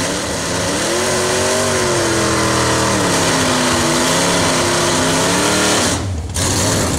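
The 1968 Plymouth Satellite's engine revving up and down over a steady hiss during a mild burnout. About six seconds in, after a short break, it settles to a lower, steadier running sound.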